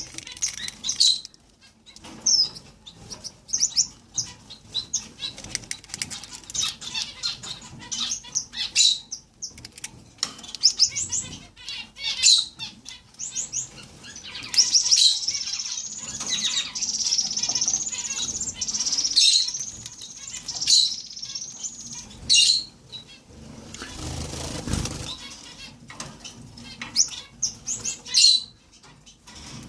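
Gouldian finches giving short, high chirping calls again and again, with a denser stretch of high twittering in the middle. About two-thirds through there is a brief rustling flutter.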